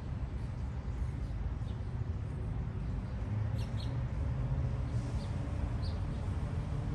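Small birds giving a handful of short, high chirps, spaced out singly and in a quick pair, over a steady low rumble.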